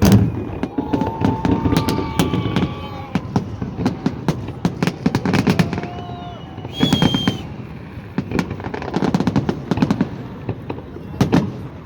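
Fireworks salute going off: clusters of sharp bangs and crackling pops in quick succession.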